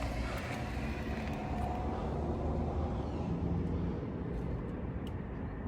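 Road traffic going by: a steady low rumble with a faint engine note that drifts in pitch.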